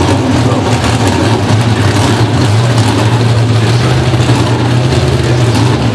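Pro Stock drag car's V8 engine running loud at a steady pitch, with no rise in revs.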